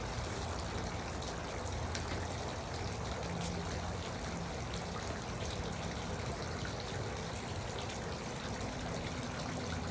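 Garden water fountain running, water trickling and splashing steadily with scattered small droplet splashes.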